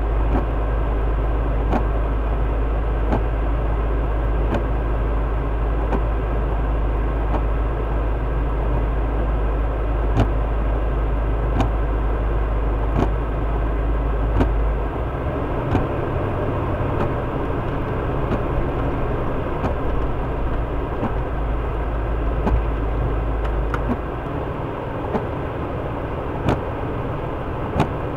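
Vehicle engine running steadily, heard from inside the cab. A deep rumble drops away about halfway through, comes back, and drops again near the end. Faint clicks come at an even pace, about one every second and a half.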